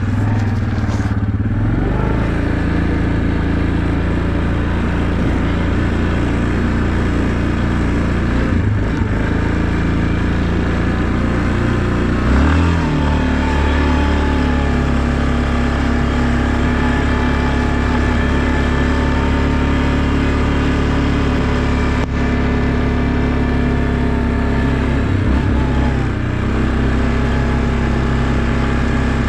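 A vehicle engine running steadily under way. Its note shifts about twelve seconds in and dips briefly near the end.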